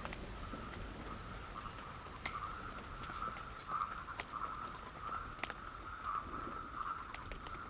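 Frogs calling in a rainforest night chorus: a steady, pulsing chorus over a thin, continuous high insect tone, with a few scattered sharp ticks.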